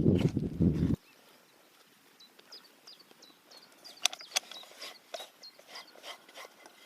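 About a second of loud, low knocking and rustling that cuts off abruptly, then a quiet outdoor background with faint, short, high bird chirps and a few small clicks.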